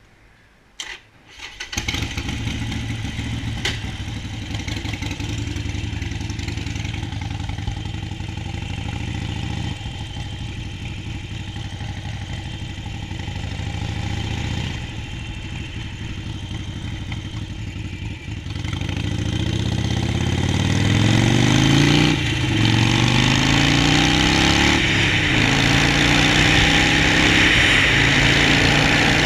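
Harley-Davidson Sportster 48's V-twin engine: a couple of clicks, then it starts about two seconds in and idles steadily. After about eighteen seconds it gets louder and the revs climb as the bike pulls away, with brief drops at the gear changes.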